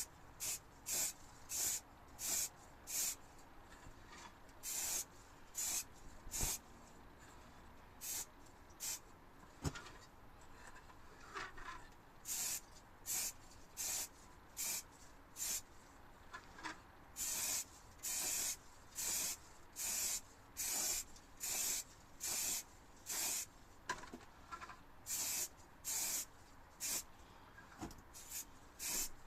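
Primer being sprayed onto a model in short hissing bursts, about three every two seconds, with a lull of a couple of seconds near the middle.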